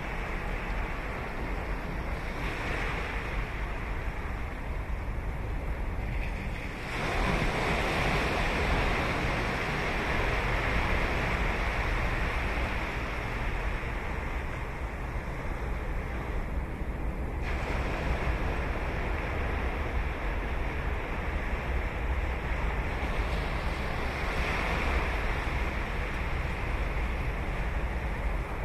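Ocean surf breaking and washing up a beach in a continuous rush. A wave breaks louder about seven seconds in and the rush stays strong for some ten seconds.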